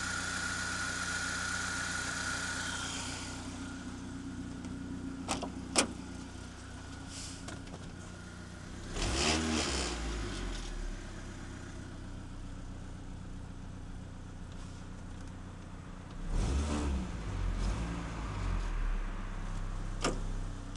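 BMW 318is four-cylinder engine idling steadily, revved briefly twice, about nine and sixteen seconds in. A high whine fades out in the first three seconds, and two sharp clicks come near six seconds.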